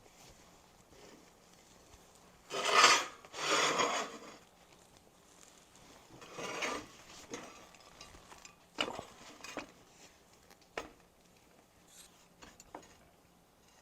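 Rasping scraping strokes, two loud ones close together a few seconds in and a softer third shortly after, followed by scattered light clicks and taps.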